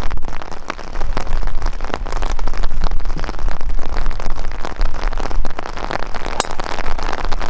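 Rain falling close around the microphone, a dense spatter of drop hits over a low wind rumble, with one sharper tap about six seconds in.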